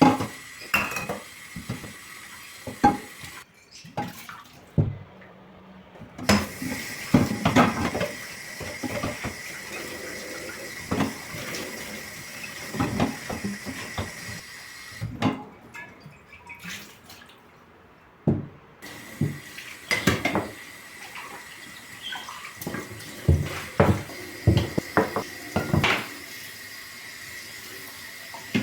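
Dishes and cutlery clinking and knocking in a kitchen sink under a running tap, the water stopping a few times in between.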